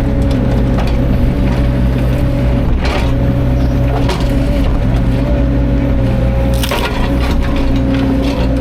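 CAT 305.5 mini excavator's diesel engine running steadily under load while it moves a heavy log, with scattered knocks and cracks of wood a few times.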